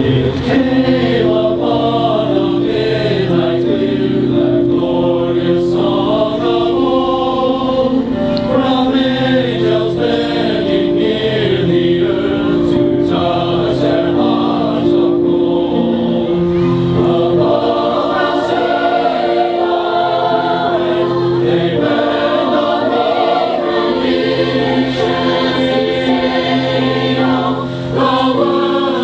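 Mixed choir singing a Christmas carol arrangement in parts, with held and moving notes.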